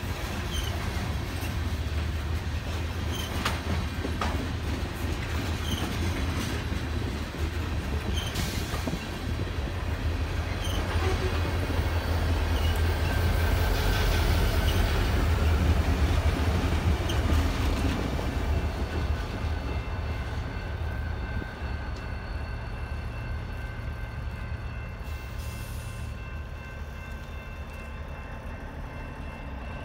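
A freight train of covered grain hopper cars rolls past, its wheels clicking over the rail joints. Then the diesel helper locomotives pushing at the rear, IC 6250 and BLE 901, pass with a deep engine rumble. The rumble is loudest about halfway through and fades as they move away.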